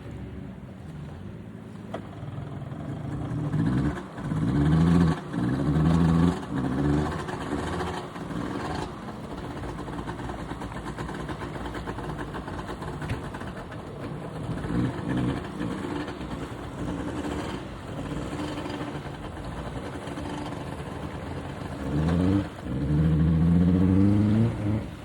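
An engine running steadily, revved up and down in short bursts about four to seven seconds in and again near the end.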